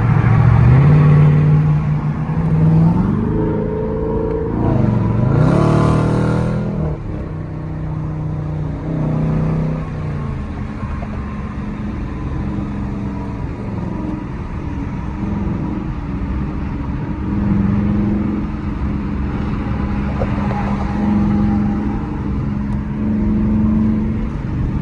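Dodge Challenger's HEMI V8 accelerating, its pitch climbing over the first couple of seconds and rising and falling again around five seconds in with a brief rush of noise, then settling into a steady cruising drone.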